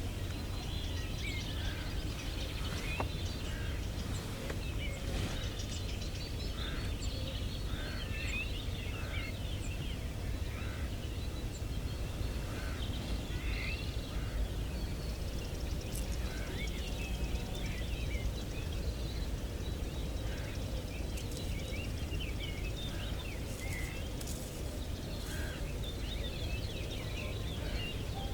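Birds calling outdoors: many short chirps and song notes, on and off, over a steady low background rumble.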